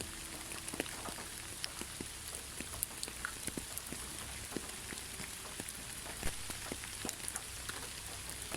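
Steady rain: an even hiss of falling rain with many separate drops tapping on a surface at irregular moments.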